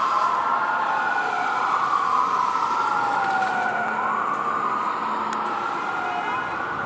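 Emergency vehicle siren wailing: a tone that slides slowly down in pitch and then sweeps quickly back up, about every two and a half seconds.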